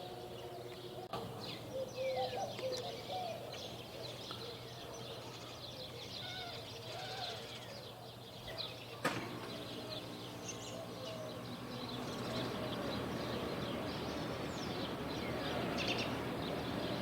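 Birds chirping and calling, with a sharp click about nine seconds in. In the second half a steady rush of a jet airliner grows slowly louder as it approaches.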